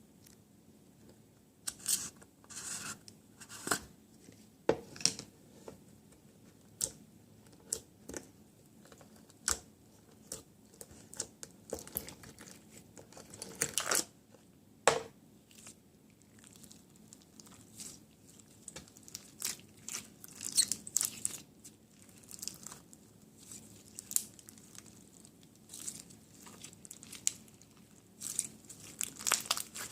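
Packaging being torn open and crinkled by hand: irregular tearing, rustling and crackling, with a flurry of louder tears partway through and again near the end.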